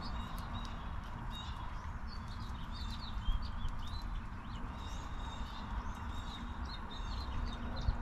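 Small songbirds chirping, many short calls throughout, over a steady low background rumble with a few light ticks.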